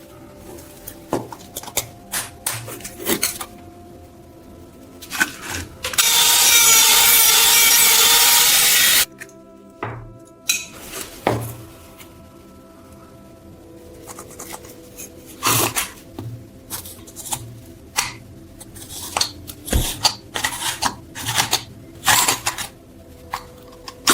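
Workshop tool and parts-handling sounds: scattered clicks, taps and scrapes. About six seconds in, a loud steady noise runs for about three seconds and cuts off suddenly.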